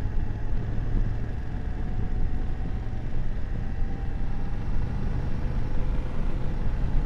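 BMW F750GS motorcycle's parallel-twin engine running at a steady cruise, mixed with a low rumble of wind and road noise.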